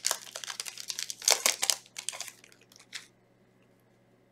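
Foil Yu-Gi-Oh booster pack wrapper crinkling as it is handled and torn open, with a dense run of crackles that stops about three seconds in.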